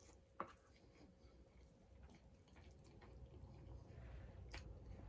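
Near silence with faint eating sounds as creamy pasta is chewed, and two short soft clicks, one about half a second in and one near the end.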